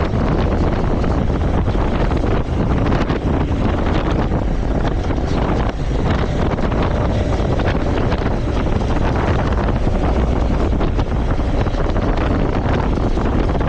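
Steady, loud wind rushing over the microphone of a moving motorcycle, mixed with the motorcycle's engine and road noise.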